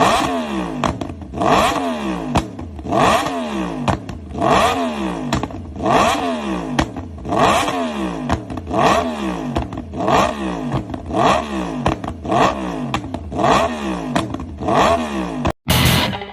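Multi-cylinder motorcycle engine revved repeatedly, about eleven sharp throttle blips roughly a second and a half apart, each climbing quickly and then falling back in pitch.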